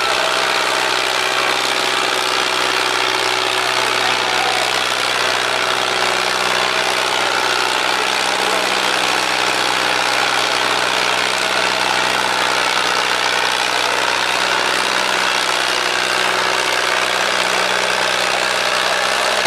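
Vintage farm tractor's engine running steadily at an even speed, with no revving or pauses.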